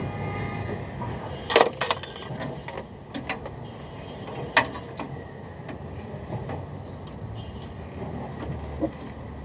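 Several sharp knocks and clinks, the loudest a pair about a second and a half in and another near the middle, over a steady background of passing road traffic.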